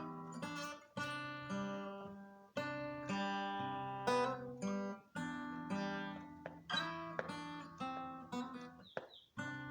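Acoustic guitar strumming chords in an instrumental passage of a song, each chord ringing out and fading before the next strum.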